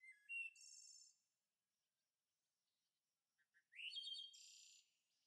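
Faint songbird song: two short phrases, one at the start and another about three and a half seconds in, each a few quick high notes running into a brief trill.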